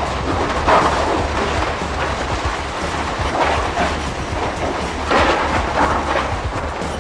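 Wind and ocean surf rushing over a steady low rumble, swelling in three stronger surges.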